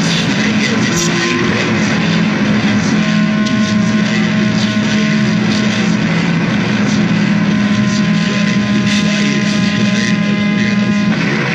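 Dense, loud noise music: a steady low drone under a thick wash of noise. Thin held tones come in a few seconds in and again near the end, then drop out.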